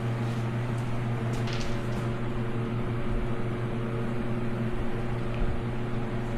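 Steady electrical or mechanical hum of a running machine in the shop, with a few light clicks and taps in the first couple of seconds.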